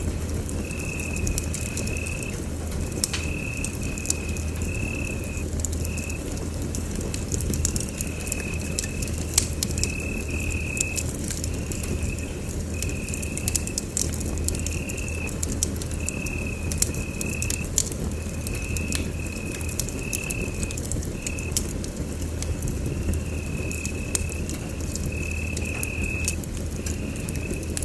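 Wood fire in a fireplace crackling with frequent sharp pops over a steady low rumble. A high, steady tone sounds in short stretches of about a second, on and off throughout.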